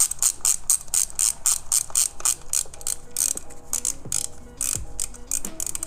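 Socket ratchet clicking rapidly, about six clicks a second, as a bolt is turned; the clicking thins out and stops about two-thirds of the way in. Background music plays under it.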